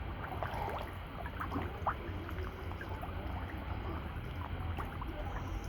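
Water sloshing and gurgling, with many small irregular plops and slurps: catfish feeding at the surface of a fish tank.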